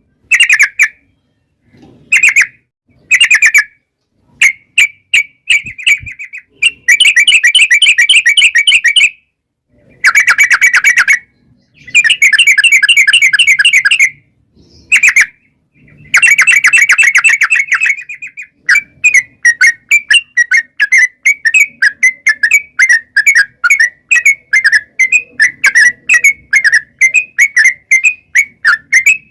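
Yellow-vented bulbul (trucukan) singing in rapid runs of quick notes. The first half has short bursts and rattling phrases of a second or two each; from about two-thirds of the way in comes one long unbroken run of chattering notes, the long "ropel" song.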